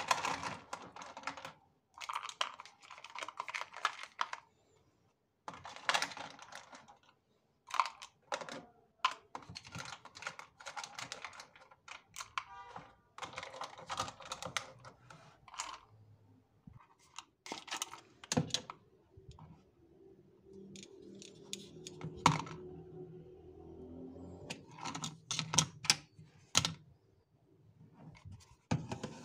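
Clicking and rattling as household items are handled and moved about while a pantry cabinet is cleared out, in bursts of a second or two with short gaps between them.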